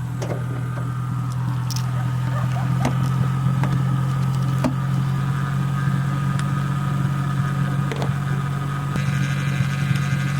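Lexus SC400's 1UZ V8 idling steadily through an exhaust with the resonator and mufflers deleted, with a steady low drone. A steady whine rides over it, which the owner puts down to the power steering pump, a common failure on 1UZ engines.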